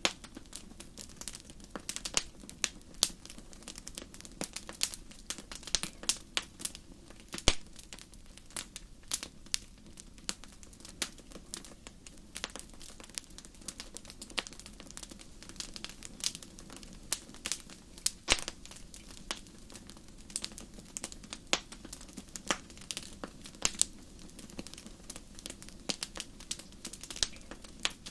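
Wood fire crackling in a fireplace: irregular sharp pops and snaps, several a second, with a few louder ones, over a steady low rush of the burning fire.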